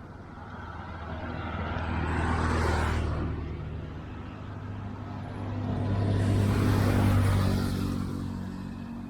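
Two motor vehicles passing by one after the other, each engine sound swelling up and fading away, the first loudest a little under three seconds in and the second about seven seconds in.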